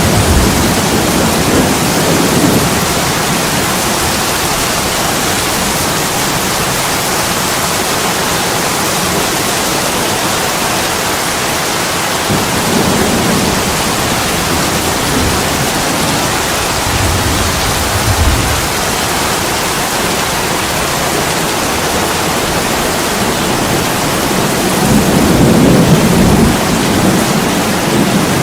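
Steady heavy rain pouring down on an attic window, with a few low rumbles that swell and fade, the strongest near the end.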